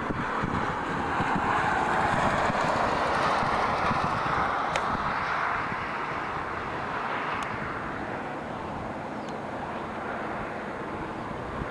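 Freight train cars rolling past on the rails: a steady rumble and wheel noise, loudest in the first few seconds and easing off as the train moves away, with a few sharp clicks.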